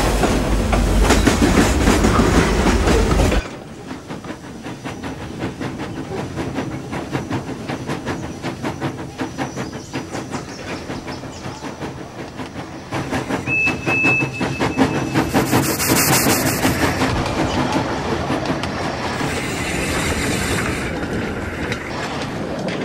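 Train wheels rolling over rail joints in a fast, even clickety-clack. A louder, fuller rumble cuts off suddenly about three seconds in, and a brief hiss of steam comes about two-thirds of the way through.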